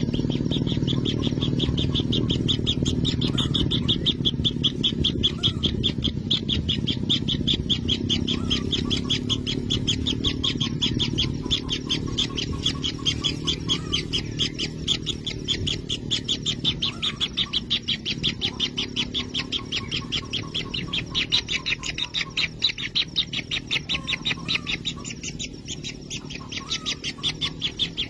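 Kingfisher nestlings calling inside their burrow nest: a steady, rapid pulsed churring of about ten pulses a second, over a low rumble.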